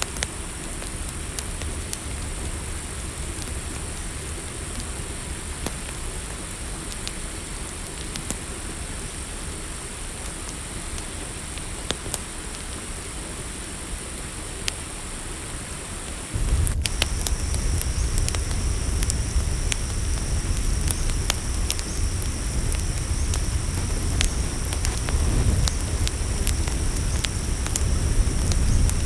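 Campfire crackling, with scattered sharp pops over a steady hiss, under a steady high chorus of night insects such as crickets. About sixteen seconds in, a low rumble grows suddenly louder and a second, lower-pitched insect drone joins.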